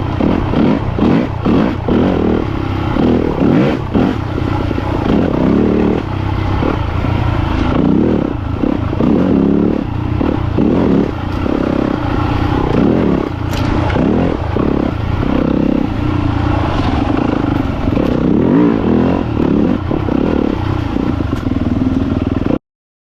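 Yamaha YZ250FX single-cylinder four-stroke dirt bike engine running through repeated throttle changes, its pitch rising and falling over and over. The sound cuts off suddenly near the end.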